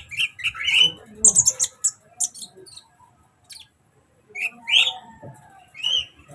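Kolibri ninja sunbird singing: quick, high chirps and short trills, with a brief lull about three seconds in.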